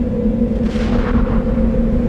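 A steady low engine drone with a held tone, and a brief rushing swoosh over it about a second in.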